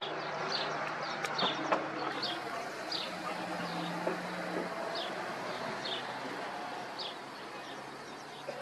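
A small bird calling with short, falling high chirps, about two a second, over a steady low hum.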